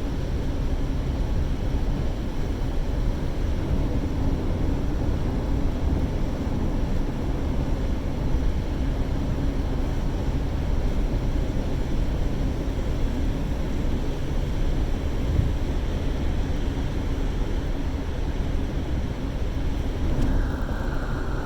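Steady road and engine noise of a car driving, heavy in the low end. About a second before the end, a steady higher tone comes in and the upper hiss drops away.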